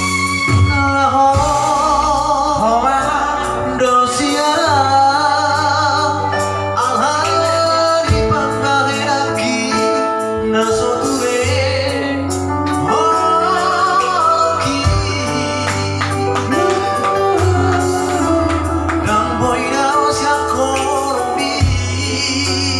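A voice singing a melody with vibrato over instrumental accompaniment with a steady bass line.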